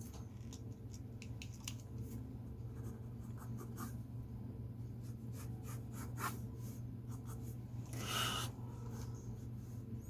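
Drawing strokes on paper: short, scattered scratches of a pen or pencil tip, with a longer scratchy rub about eight seconds in, over a steady low hum.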